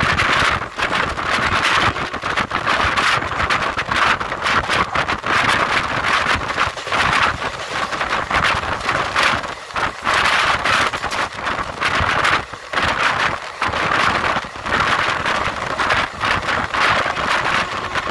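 Express train running at high speed, heard from its open doorway: a steady rush of wind on the microphone mixed with fast, continuous clatter of steel wheels on the rails.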